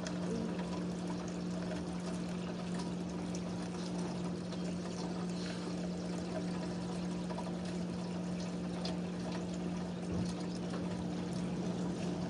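Steady rush of pouring, trickling water, with a steady low hum underneath.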